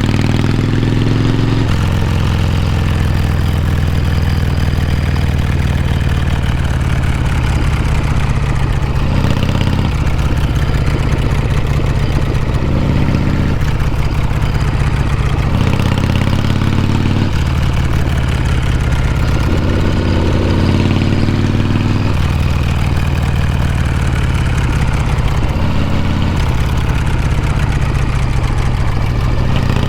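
Harley-Davidson Shovelhead V-twin exhaust note while riding, the engine's pitch stepping up and down every few seconds with throttle and gear changes.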